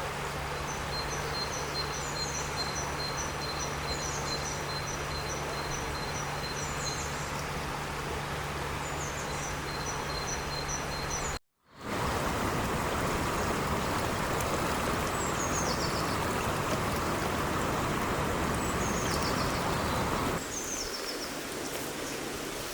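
Outdoor ambience: a steady rushing noise with small birds calling in short, quickly repeated high chirps. The sound cuts out for an instant about halfway through, then returns louder with a few falling chirps, and drops a little in level near the end.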